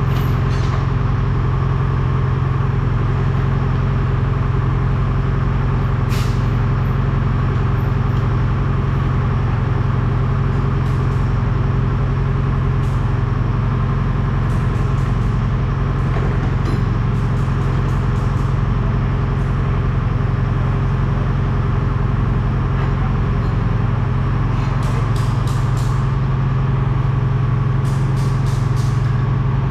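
A heavy vehicle's engine running at a steady speed, its pitch unchanging, with a few light clicks and rattles.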